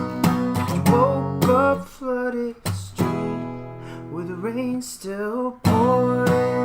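Acoustic guitar playing a blues: strummed chords with single notes bent upward. The strumming thins out in the middle, then comes back full near the end.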